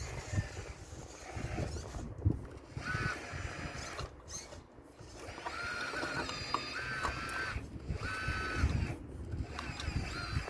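Caterpillar RC excavator's small electric motors whining in short start-and-stop spells as the machine works, with low knocks and scraping of stones being broken out of the wall.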